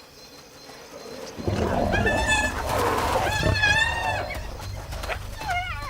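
A lioness snarling and growling as she attacks a hyena trying to steal her meat, while the hyena gives high, wavering squealing cries and a short falling cry near the end.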